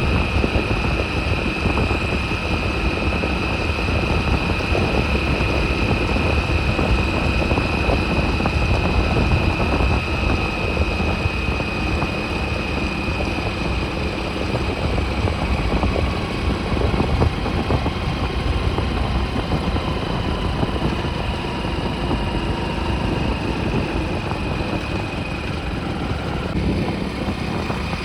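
Motorcycle running at a steady pace on the road, a continuous rumble with a thin high whine that drifts slightly in pitch.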